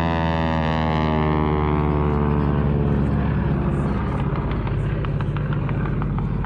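Piston-engined propeller airplane passing by, its drone dropping in pitch as it goes. From about four seconds in, a quick run of regular sharp pops sounds with it, about three or four a second.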